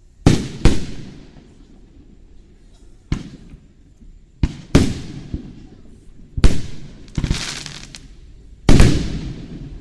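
Aerial fireworks shells bursting, about eight sharp bangs at irregular intervals, each trailing off in an echo, with a longer crackling stretch a little past halfway.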